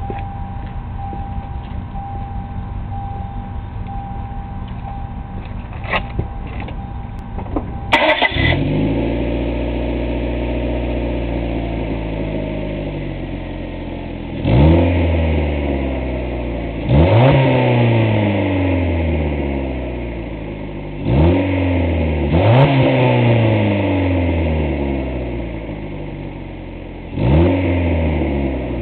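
Ford Contour engine starting about eight seconds in, then idling and revved about five times, each rev rising sharply and sinking back slowly. The exhaust is leaking through a broken flex pipe.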